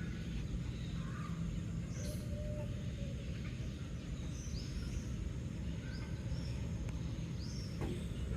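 Small birds chirping in short, high notes, several in a row in the second half, over a steady low background rumble.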